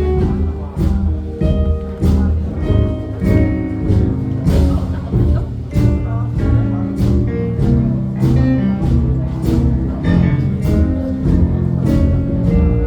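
Live jazz band playing a steady swinging groove: regular drum and cymbal strokes over a bass line, with plucked strings and other pitched instruments on top.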